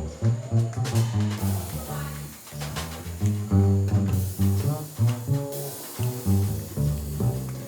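Live jazz trio with the double bass out front, plucked in a busy line of low notes, over light piano and cymbal accompaniment.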